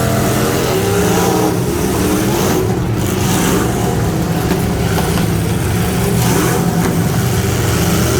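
Pickup truck engine running hard and continuously, its pitch holding fairly steady with small rises and falls.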